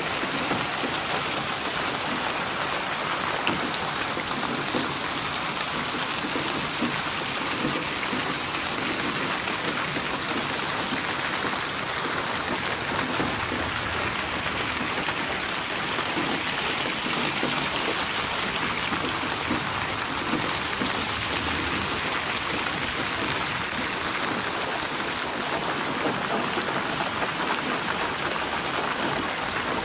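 Steady rain falling, an even unbroken hiss of drops on a surface.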